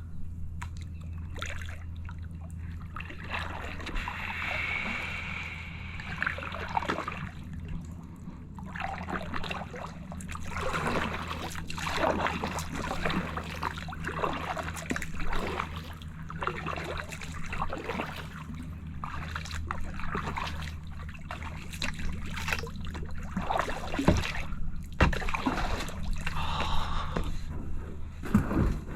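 Kayak paddle strokes through calm water: repeated splashes, sloshes and drips as the blades dip and lift, over a steady low hum.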